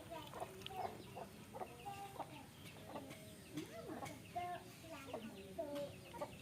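Chickens clucking: many short, overlapping calls running on without a break.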